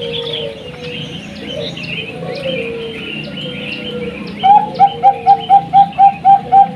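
Perkutut (zebra doves) cooing under the high chirping of small birds. About four seconds in, a loud run of quick repeated call notes starts, about four a second.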